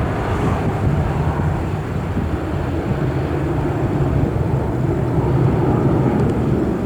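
Jet airliner's engines rumbling steadily, a little louder about four to five seconds in.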